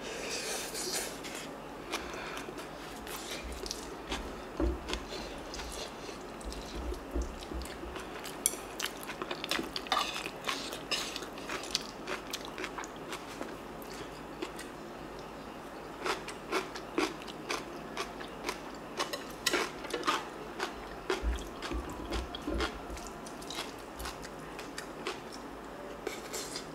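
Close-miked chewing and biting of crunchy bean sprout rice, moist crunches and mouth clicks coming in spells, with quieter pauses between mouthfuls.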